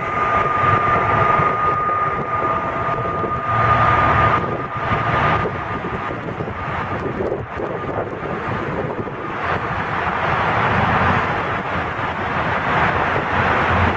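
Israel Railways double-deck passenger train rolling past along a platform, a continuous rumble of wheels on rails. A steady high whine sounds over it at first and fades out about four seconds in, and the rumble swells again near the end.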